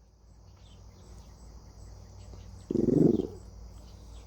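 Steady high-pitched chirring of insects, with a single short, loud, low-pitched sound about three seconds in.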